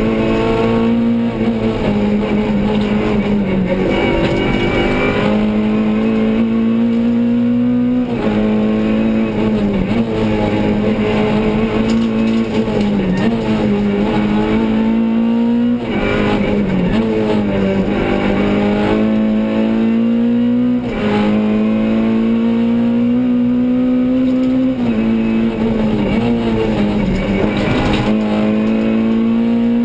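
Renault Clio Sport rally car's engine heard from inside the cabin at stage pace, revving hard. Its pitch climbs and drops back again and again as the driver shifts gears and lifts for corners.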